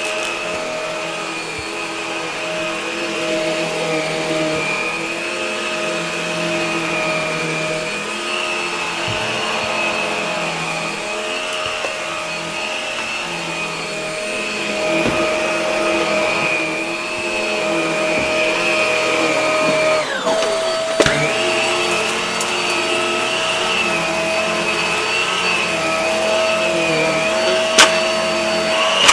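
Hart vacuum cleaner running steadily, a continuous motor whine. About two-thirds of the way through, the pitch briefly dips and glides back up.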